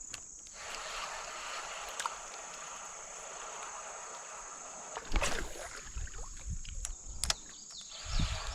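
A steady high insect drone over a rushing, water-like noise at a creek. About five seconds in there is a sudden louder splash-like rush, then a few sharp clicks, and rumbling microphone handling near the end.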